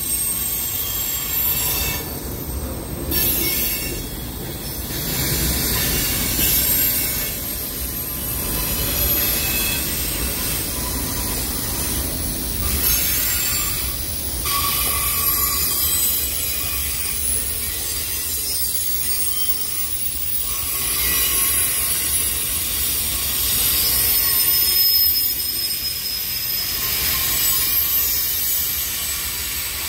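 Freight cars of a long mixed freight train (tank cars, boxcars and covered hoppers) rolling past close by, a steady low rumble of steel wheels on rail with high-pitched wheel squeal held over it.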